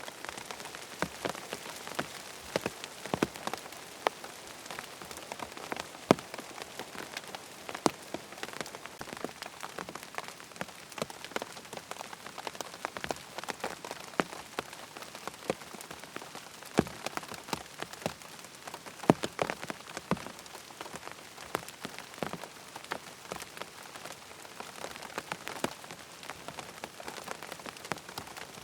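Steady rain falling on a tent, a soft hiss studded with irregular sharp drop taps on the fabric.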